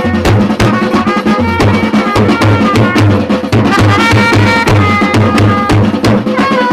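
Traditional Chhattisgarhi baaja band music for Gauri Gaura: a fast, dense drum rhythm under a melody of held and sliding notes.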